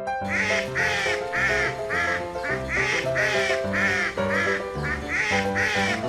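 Cartoon duck quacking again and again, about two to three quacks a second, over background music.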